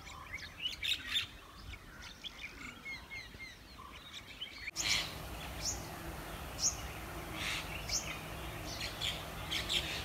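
Small birds chirping and calling in many short, high notes over a faint outdoor background. About halfway through, the background noise steps up abruptly.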